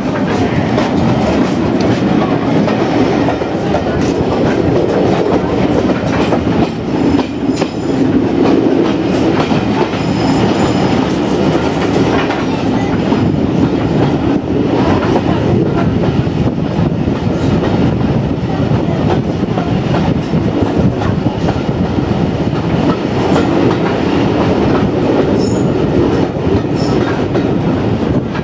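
Passenger train running along the line: a steady rumble of carriage wheels with clickety-clack over the rail joints.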